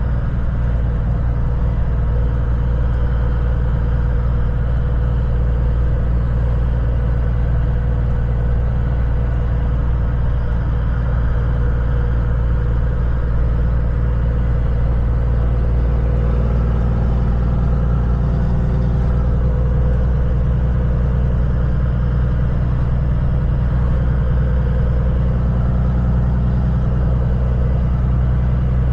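Kenworth semi truck's diesel engine running at a steady cruise, a constant low drone with road noise.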